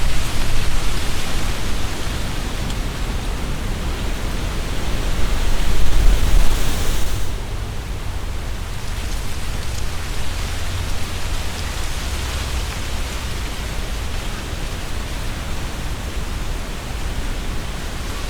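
Strong gusty wind hissing through tree leaves, with wind buffeting the microphone as a low rumble. A gust builds about five seconds in and falls away suddenly a couple of seconds later.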